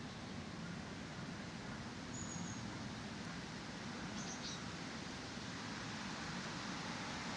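Steady outdoor park ambience, a hiss of distant background noise, with a brief high chirp about two seconds in and two more short high chirps about four seconds in.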